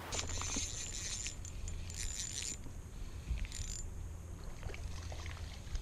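Ultralight spinning reel being cranked in three short spells, a high whirring with small clicks, over a steady low rumble.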